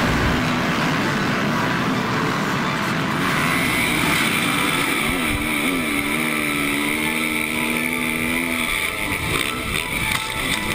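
Motocross bike engines running, with one engine note wavering up and down through the middle as a bike revs.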